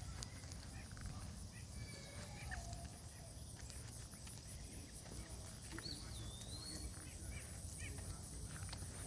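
Faint outdoor ambience with a few scattered bird calls and short whistles. Under them runs a steady high-pitched drone and a low rumble.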